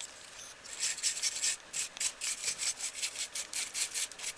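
Small brush sweeping dust off the plastic blades of a PC power-supply cooling fan, a quick series of short bristly scrubbing strokes, about three or four a second, starting just under a second in.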